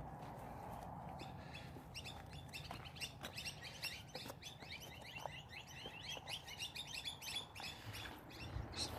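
Birds chirping in a fast, busy run of short high notes, starting about a second and a half in. A few faint scuffs of shoes and hands on rock come through underneath.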